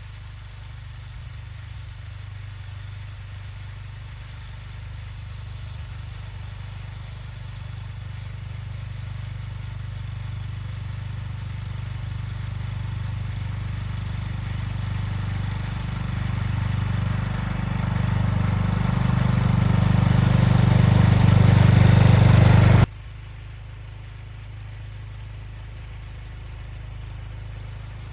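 Craftsman T210 lawn tractor engine running steadily, growing louder over about twenty seconds. Near the end it drops suddenly to a quieter, steady running sound.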